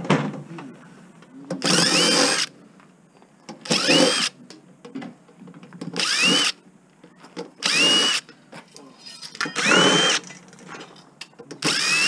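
Cordless drill-driver running in six short bursts about two seconds apart, each a brief whine that rises in pitch as the motor spins up, backing screws out of the casing.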